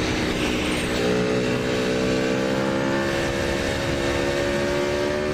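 Aprilia Tuono V4 1100RR's V4 engine through an aftermarket Graves exhaust, pulling under steady throttle with its pitch climbing slowly, after a brief unsettled moment about a second in. A low wind rumble runs underneath.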